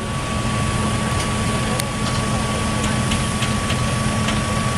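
Engine of a heavy vehicle running steadily at a low, even pitch.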